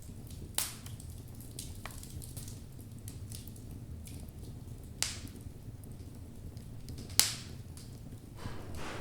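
Wood logs burning in a fireplace: a low steady rumble of flames with sharp crackling pops, three loud ones about half a second, five and seven seconds in, and a few smaller clicks. A hissing rush builds near the end.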